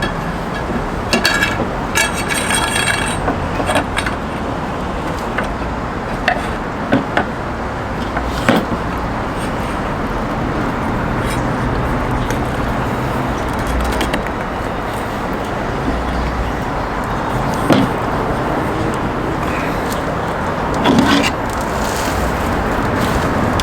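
Metal clinks and knocks from handling a rotisserie spit and its forks while fixing a chicken on it: a quick cluster of clinks a second or two in, then single knocks now and then. Under them runs a steady background rumble.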